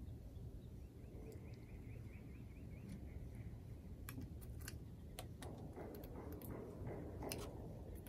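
Faint, sparse clicks and taps of a Steller's jay picking at peanuts in the shell in a small dish, mostly in the second half. About a second in, a bird gives a faint rapid series of short chirping notes lasting about two seconds.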